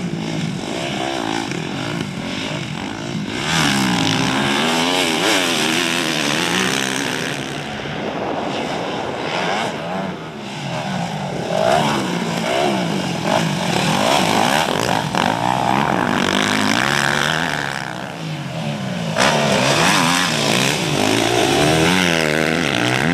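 Motocross bike engine revving hard, its pitch climbing and dropping again and again as the rider runs up through the gears and backs off while riding.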